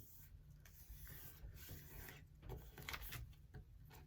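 Faint rustling and rubbing of a sheet of paper being folded and creased by hand, in short irregular strokes.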